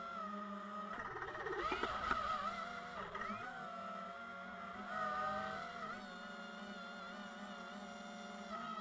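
Quadcopter drone's motors and propellers whirring steadily, the pitch wavering up and down, with a louder, rougher stretch from about one to three seconds in.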